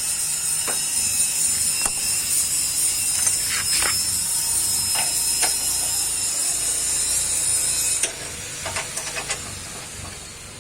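Welding on a broken motorcycle exhaust pipe: a steady, loud hissing with scattered clicks that cuts off suddenly about eight seconds in.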